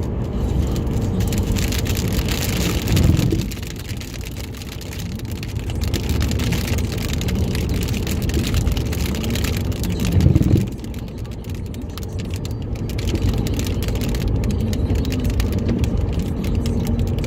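Rain pelting a moving car's windshield and roof, over steady road and engine noise inside the cabin. Two brief low thumps stand out, about three seconds in and again about ten seconds in.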